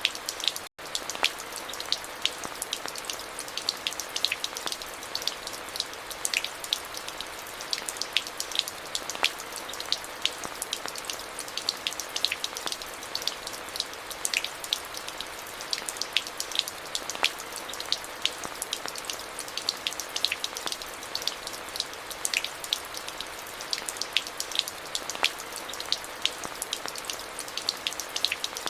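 Steady rain falling, with many sharp individual drop impacts over a constant hiss of rainfall. The sound cuts out for an instant less than a second in.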